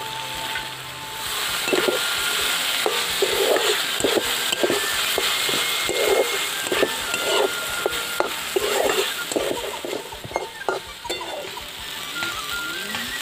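A spatula stirring and scraping food frying in spice paste in a wok, with steady sizzling that gets louder about a second in and many short scraping strokes against the pan.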